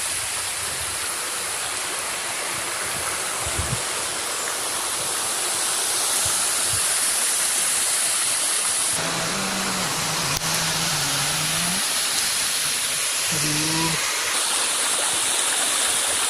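Waterfall: a steady rush of falling water, which changes abruptly twice, about nine and fourteen seconds in.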